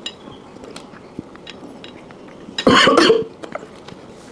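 Close-miked eating sounds: small mouth and utensil clicks, then, near the end, one loud half-second breathy burst from the mouth.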